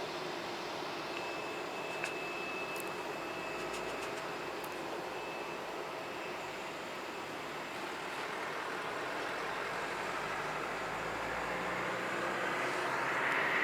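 Jet airliner engine noise: a steady rush with a faint high whine, growing louder near the end.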